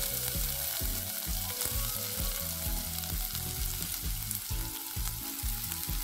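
Grated pumpkin and coconut frying in hot oil in a pot, a steady sizzle.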